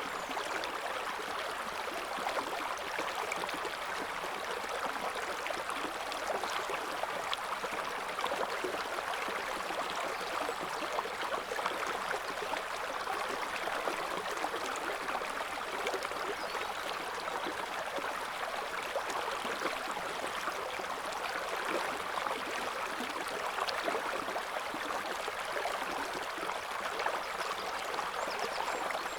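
River water flowing and babbling over stones: a steady rushing with fine splashes and gurgles, centred in the mid and high range and without a deep low rumble.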